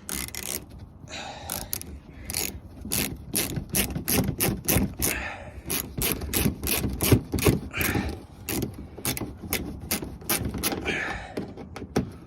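Ratchet wrench clicking in quick irregular runs, tightening a trim bolt.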